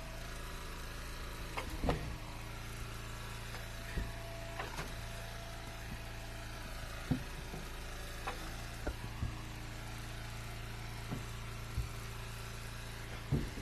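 Gas engine of an Eastonmade wood splitter running steadily, with scattered short knocks of split ash firewood pieces clunking down.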